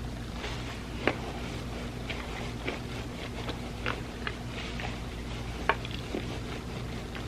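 Close-miked mouth sounds of eating an ice cream sandwich: irregular wet clicks and smacks of chewing, the sharpest about a second in and again near the end, over a steady low hum.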